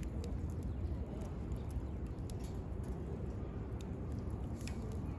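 Wood campfire crackling, with scattered sharp pops at irregular moments over a steady low rumble.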